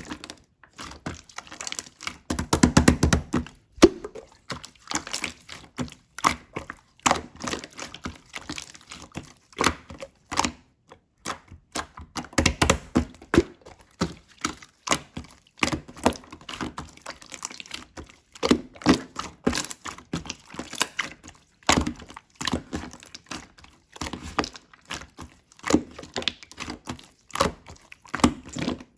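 Slime being played with by hand, making quick irregular clicks and pops, with two denser stretches of crackling.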